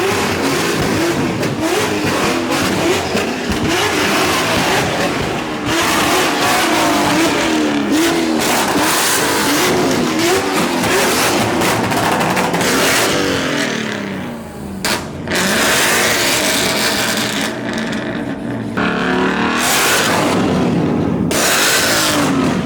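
Car engine revving hard, its pitch rising and falling over and over, under a continuous loud rush of exhaust noise. It briefly drops away about fourteen seconds in, then comes back.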